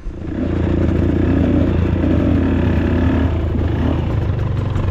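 Dirt bike engine coming in suddenly and running steadily, with a wavering higher note over a low, even drone.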